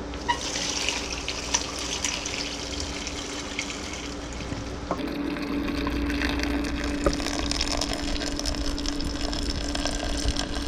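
Homemade chicken stock being poured into a pot of jasmine rice: a steady pour of liquid splashing in, its sound changing about halfway through as the pot fills, over a steady low hum.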